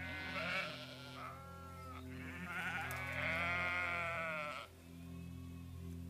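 Sheep bleating: a short bleat at the start, then a longer wavering bleat about two seconds in.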